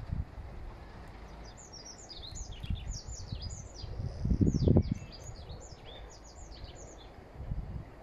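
A small songbird warbling: a fast run of short, high, downward-sweeping notes from about a second and a half in until near the end. A low rumble runs underneath, with a louder low thump about halfway through.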